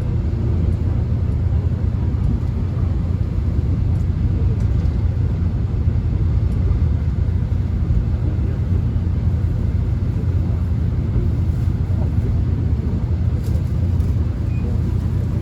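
Steady low rumble and running noise heard inside a moving subway car, with a few faint ticks and rattles.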